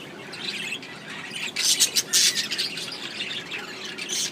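Caged parakeets chirping and squawking, with a loud burst of harsh squawks about one and a half seconds in lasting under a second.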